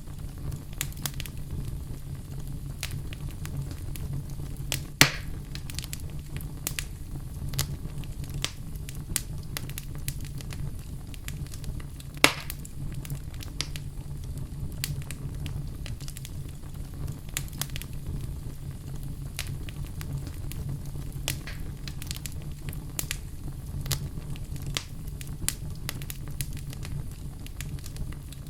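Fire burning in a fireplace, crackling with many small snaps over a steady low rumble. Twice it gives a louder pop, about five and about twelve seconds in.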